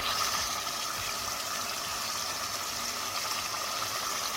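Steady sizzling hiss of chicken cooking in mustard oil and onions in a pot on a gas stove.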